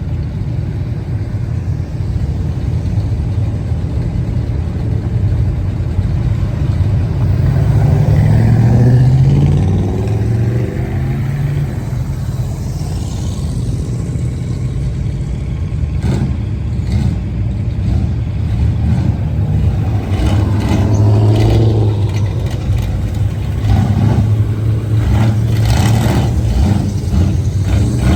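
Car engine running with a low rumble, rising in pitch about eight to ten seconds in as it is revved, then settling back; a few sharp knocks or clatters near the end.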